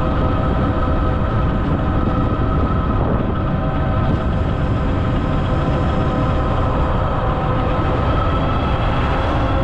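Ariel Rider Grizzly e-bike under way: a steady whine with several tones from the drive and fat knobby tyres, over heavy wind rumble on the microphone. The whine rises a little in pitch near the end as speed picks up.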